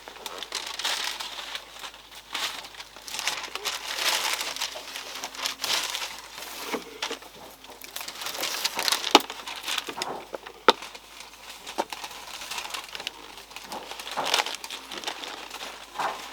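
Bag crinkling and rustling in irregular bursts as a pomelo fruit is bagged on the tree, with a few sharp clicks and snaps.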